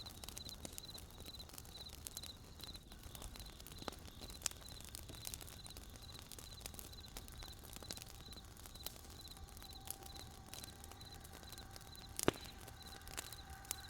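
Wood campfire crackling with scattered sharp pops, the loudest about twelve seconds in, under a cricket chirping in short, evenly repeated pulses. A faint steady tone joins near the end.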